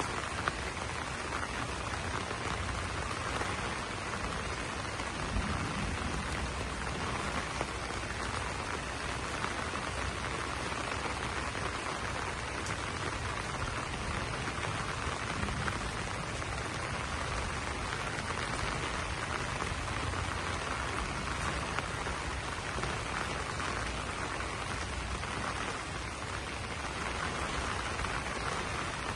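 Steady rain falling on banana leaves, an even, unbroken hiss of drops.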